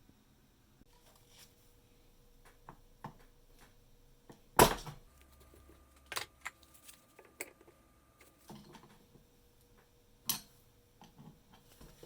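Scattered small clicks and knocks of hard parts being handled on a workbench, with a sharp knock about four and a half seconds in and another near ten seconds. A faint steady hum runs underneath.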